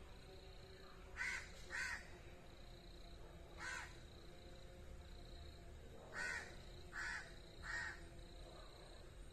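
A bird calling: six short, rough calls. Two come close together about a second in, one comes near four seconds, and three follow in quick succession after six seconds.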